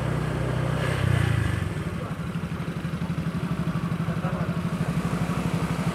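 Small motorcycle engine running as the bike rolls to a stop, then idling with an even, rapid putter from about two seconds in.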